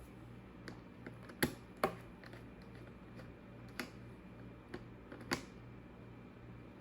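Laptop keys or buttons pressed one at a time: about ten scattered clicks, the two loudest about a second and a half in, over a low steady hum.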